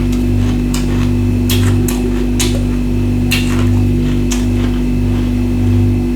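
Ice being bitten and crunched in the mouth, a series of sharp crunches coming irregularly, about once or twice a second, over a loud steady electrical hum.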